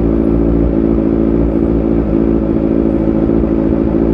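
Kawasaki Z1000's 1043 cc inline-four engine, fitted with an Austin Racing twin exhaust, running at steady revs with an even, unchanging pitch.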